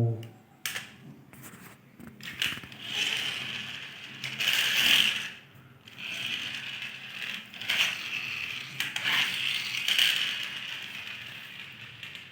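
Plastic and cardboard toy packaging being handled, crinkling and rustling in irregular bursts with small clicks, as a toy car is worked free of its box.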